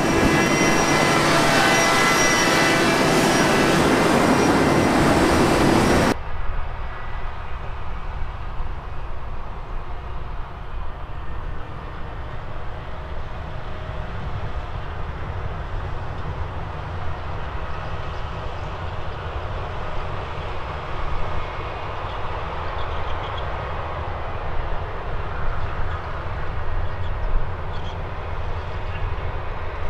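Heavy beet-harvesting machinery running close by: a loud, steady diesel-and-machine drone with many steady tones. About six seconds in, it cuts abruptly to a quieter, duller low rumble of machinery.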